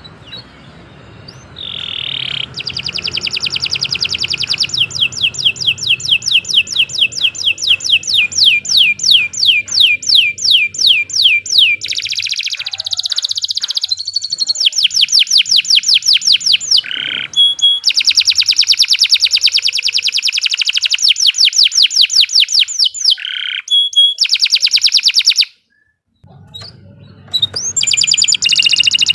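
Domestic canary singing a long, fast song: strings of rapid, evenly repeated high-pitched notes rolled into trills, phrase after phrase, with one brief pause a little before the end.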